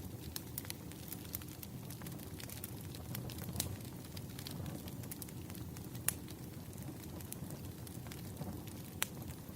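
Wood fire in a fireplace crackling: a steady low rumble of burning with irregular sharp pops and snaps, the loudest about six seconds in and another near the end.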